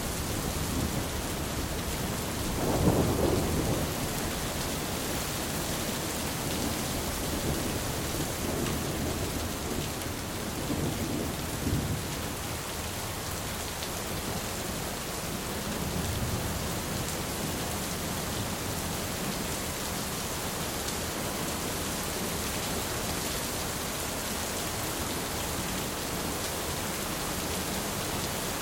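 Steady rain falling during a thunderstorm, with rolling thunder rumbling underneath. The loudest roll of thunder comes about three seconds in, with weaker rumbles a few seconds later and again past the middle.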